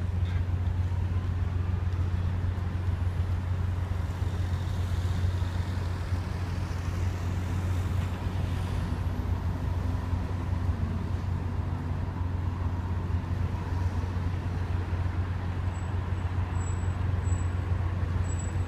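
Ferry's diesel engine running, a steady low drone that holds even throughout.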